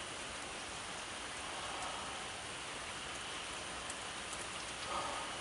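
Steady rain falling, an even hiss of drops hitting surfaces.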